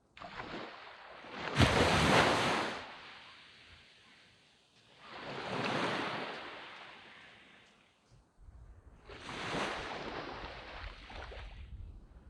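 Waves breaking on a sandy beach, three washes of surf about four seconds apart, the first the loudest.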